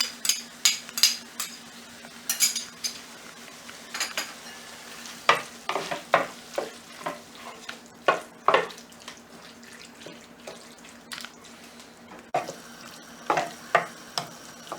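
A spoon stirring chicken, yogurt and spices in a hot pan, scraping and knocking against the pan in quick strokes that thin out later on, over a light sizzle. A steady low hum runs underneath.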